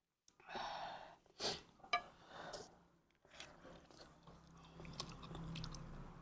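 A person chewing a mouthful of bún riêu crab noodle soup, with irregular soft mouth noises and a few small clicks.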